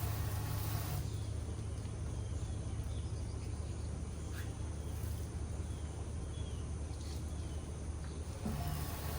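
Small birds chirping in short, scattered calls over a steady low mechanical hum.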